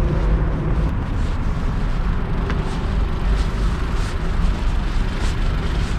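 Steady low rumble of wind buffeting the action camera's microphone in a snowstorm.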